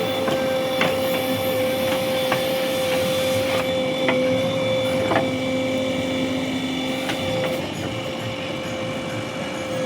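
JCB backhoe loader running at work, with a steady whine over the engine noise and a few sharp knocks scattered through.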